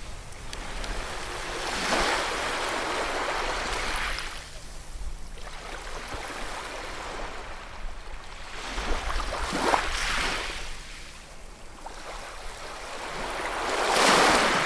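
Ocean waves breaking and washing up the shore in a steady hiss that swells and ebbs, with three surges, the loudest near the end, over a low rumble of surf.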